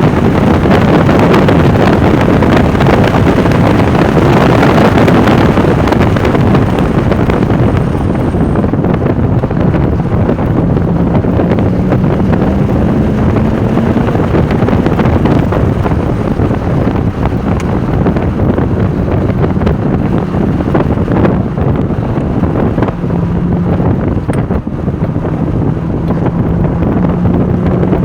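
Porsche 996 Turbo's twin-turbo flat-six running hard at track speed, heavily buffeted by wind noise on the microphone. The engine note rises in pitch at a few points as the car accelerates, and the rush of wind is loudest in the first several seconds before easing.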